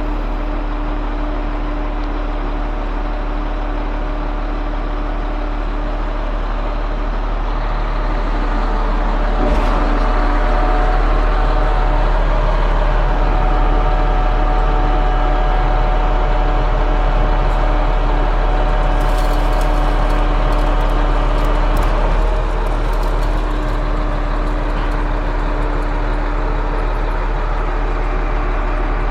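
Truck-mounted concrete pump's diesel engine running steadily with a strong low hum. A knock about ten seconds in marks a rise in level that holds until a second knock about twenty-two seconds in, where it drops back.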